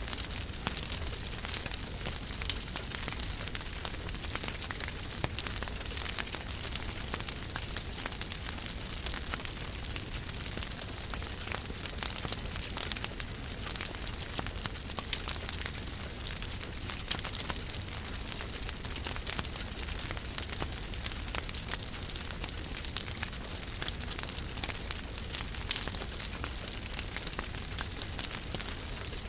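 Wood fire crackling in a fireplace: a steady hiss dotted with many small snaps and a few louder pops.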